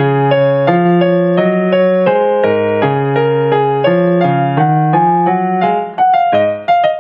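Yamaha electronic keyboard playing a song's instrumental introduction in D-flat major: a steady melody of single notes over held chords, turning to short detached notes near the end.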